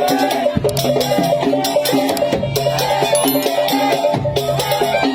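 Madurese ul-daul percussion ensemble playing a saronen tune: a melody line over a steady beat of drums and rattling percussion.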